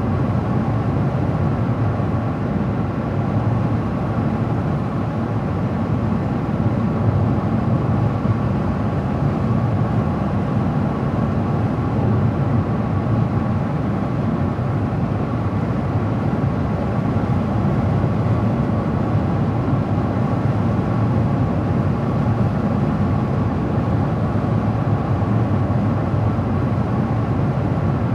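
Car driving at a steady speed: constant road and tyre noise with a low engine hum.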